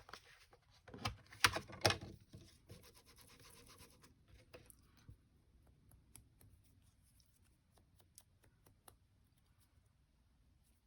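Scratchy rubbing and dabbing of colour onto paper, with a few sharp taps about one to two seconds in, then only faint scattered ticks.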